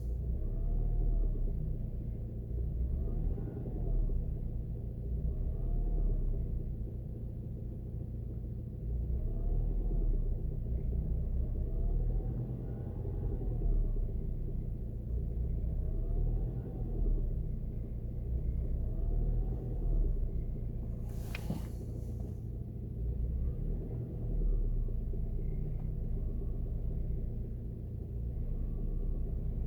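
A Ford Focus 1.8 with a manual gearbox running, a steady low rumble with a faint tone that rises and falls every two to three seconds and one sharp click about two-thirds of the way in. The knock in it is the fault the owner is recording.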